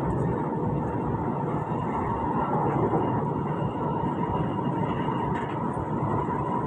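Alstom Movia R151 metro train running at a steady speed, heard from inside the car: an even rumble of wheels on rail with a steady whine from the traction motors.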